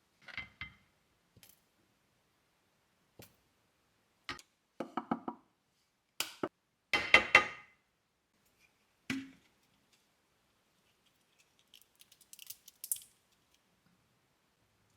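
Kitchenware being handled: scattered knocks and clinks of dishes and utensils. A quick run of knocks comes about five seconds in, and the loudest, ringing clink about seven seconds in.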